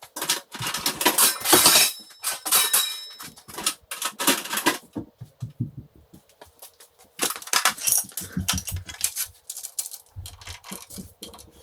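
Metal tools clinking and clattering as a socket set is rummaged through for a box spanner bit. The clatter comes in two spells with a short lull between, and some dull knocks in the second.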